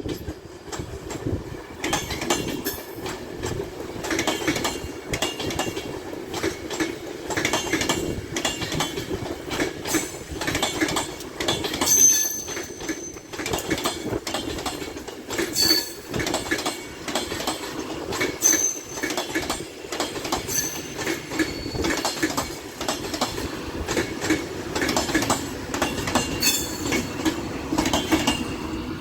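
A train running through a station, its wheels clattering over rail joints and pointwork, with brief high wheel squeals now and then.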